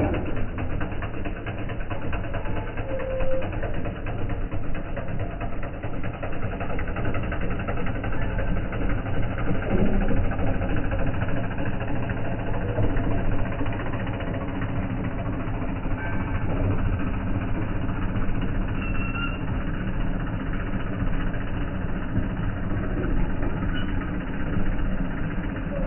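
New Holland farm tractor's diesel engine running steadily.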